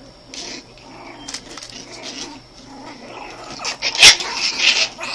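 Five-week-old Pomeranian puppies play-fighting: scuffling with small growls and yaps in irregular bursts, with the sharpest, loudest yap about four seconds in.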